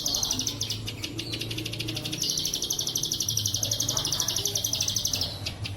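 Bren cicada buzzing in long, rapidly pulsed high trains, with one dying away about a second and a half in and a louder one running from about two seconds to near the end, over a low hum.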